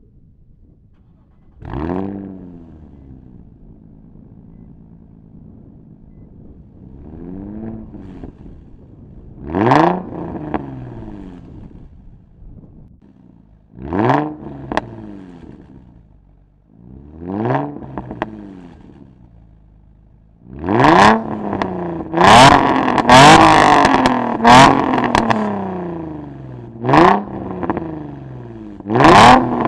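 Nissan 350Z's 3.5-litre VQ35 V6 through an Invidia Gemini cat-back exhaust, free-revved in short throttle blips, heard close to the tailpipes, the note rising and falling each time. In the second half come harder, quicker revs with loud, sharp pops from the exhaust as it comes off throttle.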